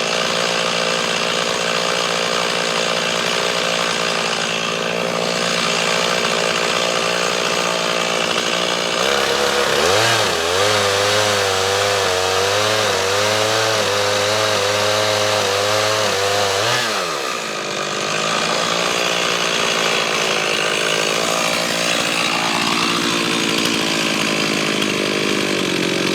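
Stihl MS 391 two-stroke chainsaw running steadily on a chainsaw mill, ripping lengthwise through a green cedar log. For several seconds midway its note wavers up and down, and right at the end the sound drops away sharply.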